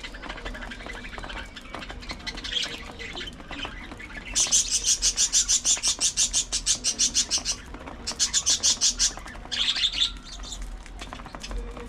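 Pet budgerigars chirping and chattering. About four seconds in comes a loud run of rapid, evenly spaced high-pitched notes, about eight a second for some three seconds, then a shorter run of the same and a brief burst of chirps.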